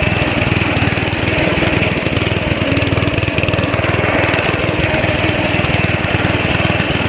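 Riding lawn mower engine running steadily under way, with fast even firing pulses and a steady high whine above it.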